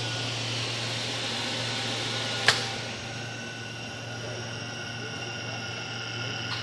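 Three-phase electric motor running steadily: a continuous hum with several steady high-pitched tones over it. One sharp click about two and a half seconds in, after which the sound settles slightly quieter.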